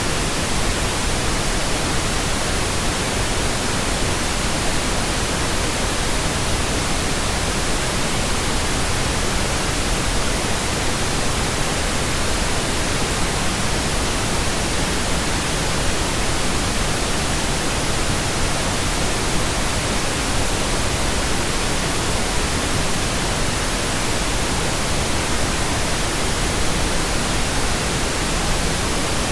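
Steady synthetic pink noise: an even, unchanging hiss spread across all pitches, generated digitally.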